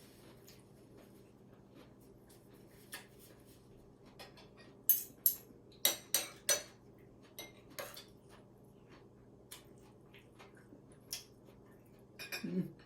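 Cutlery clinking and scraping against a plate and dishes during a meal, in scattered light taps, with a cluster of loud, sharp clinks about halfway through.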